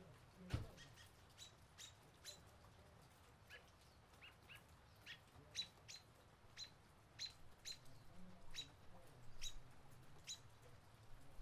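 Faint short high bird chirps, repeated roughly once a second and growing more frequent in the second half, with a single low knock about half a second in.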